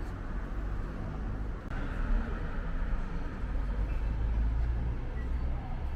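Street traffic noise, steady, with a heavy low rumble. Road noise seems to swell from about two seconds in, as a vehicle passes.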